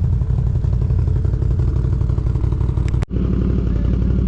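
Off-road vehicle engine running steadily with a fast, even pulse. The sound drops out for an instant about three seconds in.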